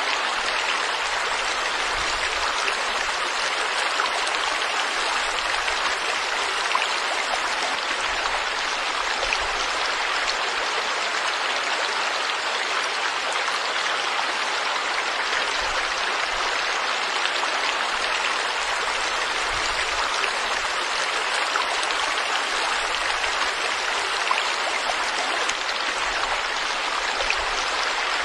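Stream water flowing steadily over rocks, a continuous rushing and splashing.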